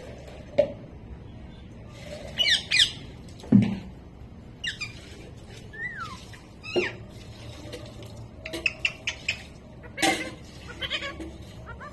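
Pet parrot giving a series of short, sharp squawks and whistled calls, one sliding down in pitch, with a quick run of clicking chirps about two-thirds of the way through.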